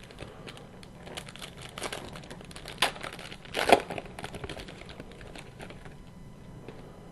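Foil card-pack wrapper crinkling and tearing as it is opened, with the cards inside sliding and clicking, the loudest crackles about three and four seconds in.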